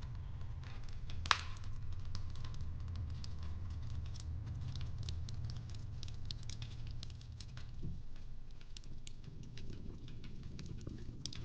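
Fireplace crackling: a steady low rumble under irregular small pops and snaps, with one sharper crack about a second in.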